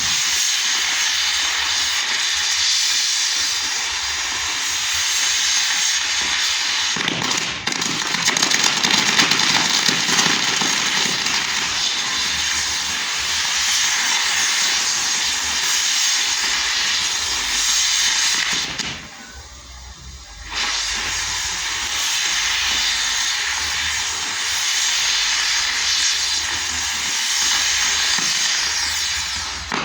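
Fireworks giving off a steady, loud rushing hiss, with no separate bangs standing out. The hiss drops away for about a second and a half about two-thirds of the way through, then comes back.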